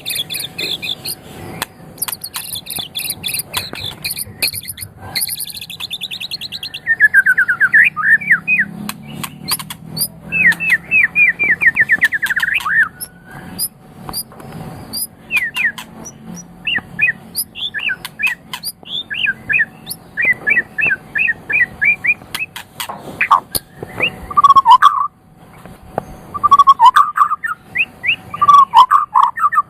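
White-rumped shama singing a long, varied song. It opens with high, rapid trills, moves on to fast series of downward-sweeping notes, and ends with lower, loud whistled phrases.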